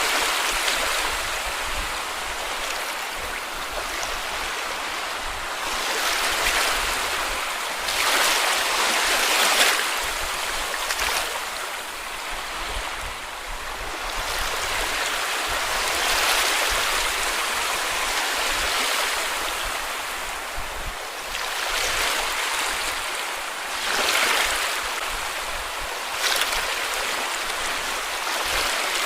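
Small sea waves breaking and washing onto a beach, a steady rush that swells into a louder surge every few seconds.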